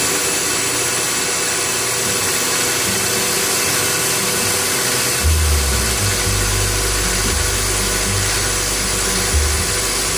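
Milling machine running as it cuts a pocket clip, under the steady hiss of an air-driven coolant misting system. A deeper low hum joins about halfway through.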